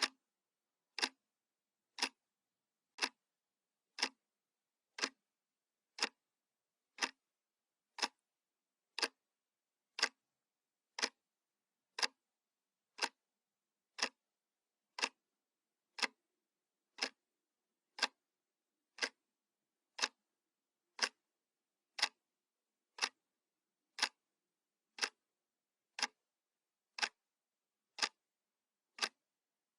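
Analog wall clock ticking, one sharp tick each second.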